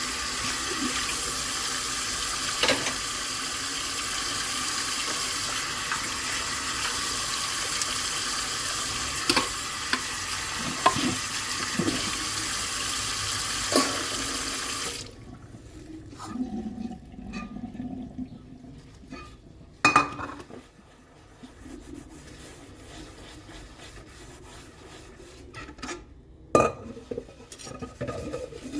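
Kitchen tap running into a sink, with dishes clinking now and then. About halfway through the water shuts off suddenly, leaving quieter scattered clinks and knocks of dishes being handled.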